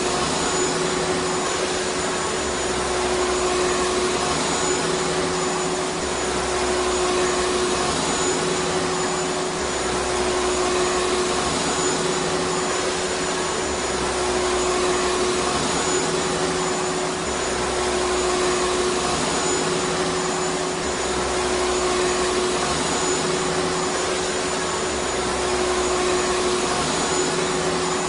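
Vacuum cleaner running steadily: a constant motor hum over a dense rush of air, with a low rumble that swells and drops back every few seconds.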